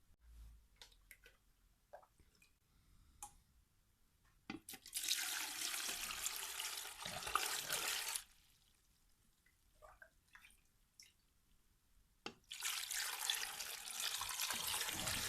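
Water running from a tap in two spells of about three seconds each, with a few small clicks and knocks between them.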